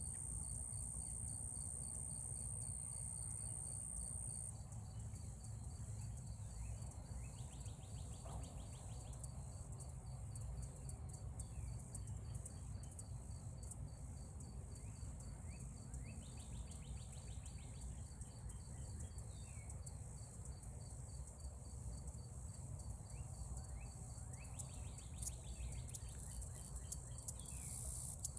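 Insects, cricket-like, chirping in a fast even pulse. A steady high-pitched buzz runs over it for the first four seconds or so, and there is a low rumble underneath. A few sharp clicks come near the end.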